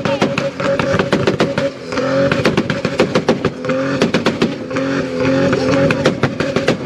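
Car engines, a Toyota Supra's among them, held on two-step launch-control rev limiters: a steady, loud held rev broken by rapid, crackling exhaust pops and bangs, with a brief dip about two seconds in.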